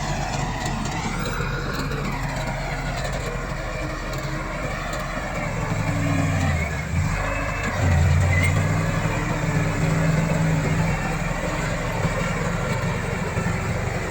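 Komatsu D68 bulldozer's diesel engine running steadily; its note drops briefly about six seconds in, then comes back louder about eight seconds in.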